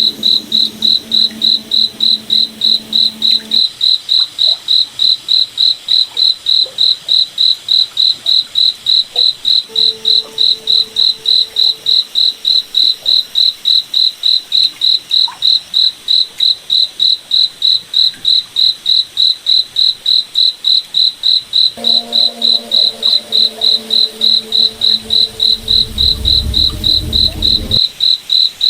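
A cricket chirping steadily in a high, even pulse, about three chirps a second. A fainter, lower hum comes and goes beneath it, with a deeper rumble near the end that cuts off suddenly.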